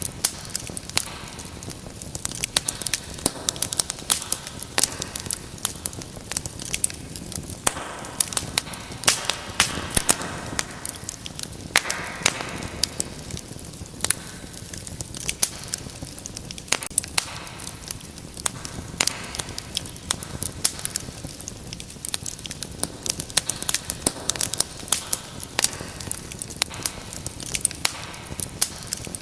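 Wood fire crackling, with irregular sharp pops over a steady hiss and a brief louder hissing surge about twelve seconds in.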